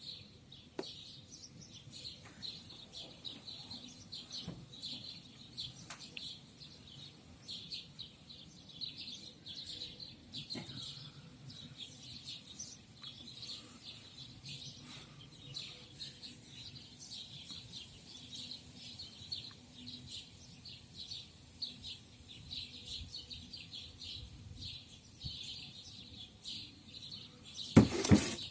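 Songbirds chirping and singing continuously in a dense chorus of quick, high notes. A brief loud thump near the end.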